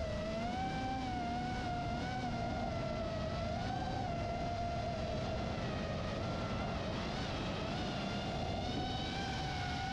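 Electric motor and propeller of a large battery-powered RC foam airplane in flight: a steady whine whose pitch wavers slowly up and down as it flies, over a low rumble of wind on the microphone.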